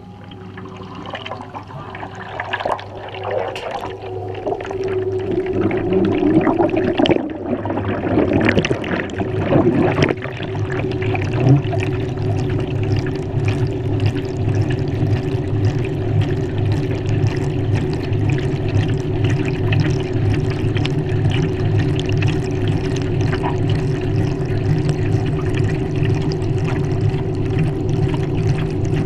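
Water pouring and splashing inside a Maytag washing machine's tub, heard from within the drum over the machine's steady motor hum. The splashing grows louder over the first few seconds, and about ten seconds in a stronger, pulsing low hum joins it.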